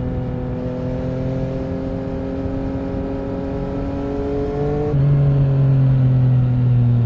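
Yamaha MT-09 SP's three-cylinder engine through an Akrapovic Racing exhaust, running with the revs slowly climbing. About five seconds in it suddenly gets louder, the pitch drops a little, and the revs then ease down.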